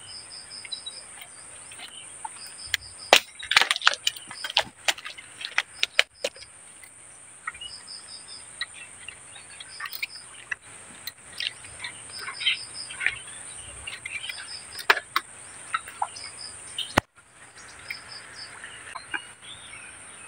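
A bird repeats short runs of quick high notes every second or two over a steady high insect drone. A cluster of sharp clicks and knocks a few seconds in, from the airgun and gear being handled, is the loudest sound.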